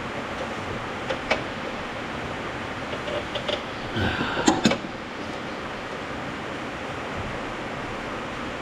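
Steady hiss of rain falling, with a few sharp knocks and clinks about a second in and a quick cluster of them around the middle.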